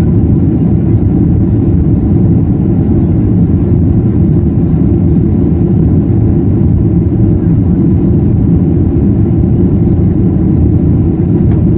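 Loud, steady cabin rumble of a Boeing 737-800's CFM56 turbofan engines at high thrust during takeoff and climb, heard from inside the passenger cabin.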